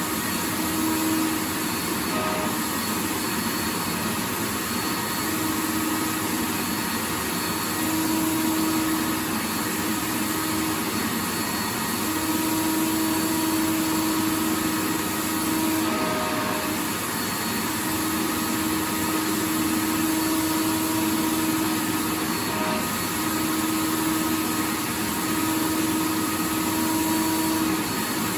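Vacuum cleaner running steadily: a continuous rushing hiss with a faint motor whine that fades in and out every few seconds.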